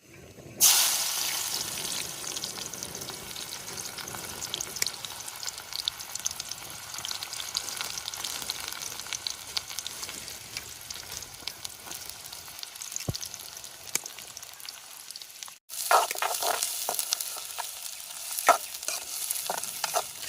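Food frying in hot oil in a pan: a loud sizzle starts about half a second in and settles into a steady sizzle with crackles. It breaks off briefly near the end and comes back with sharper crackles and stirring strokes.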